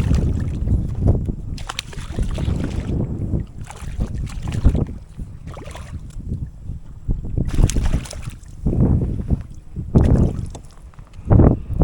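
Strong gusty wind buffeting the microphone in uneven low rumbling surges, with water splashing and slapping at the boat.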